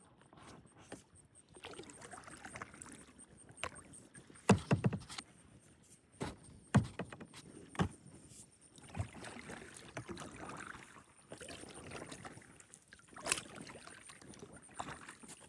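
Kayak paddling: paddle strokes swishing and dripping in the water, with a few sharp knocks, the loudest about four and a half seconds in.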